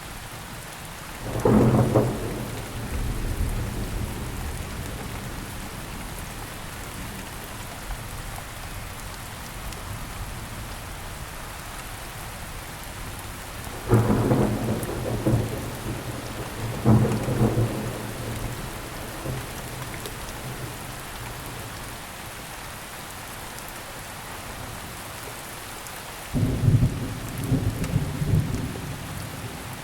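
Steady rain falling on surfaces, with thunder rumbling loudly four times: once about a second and a half in, twice in the middle, and once near the end.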